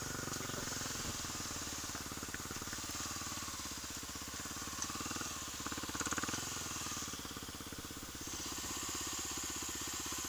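Kawasaki KLX250's single-cylinder four-stroke engine idling steadily, its firing heard as an even rapid beat.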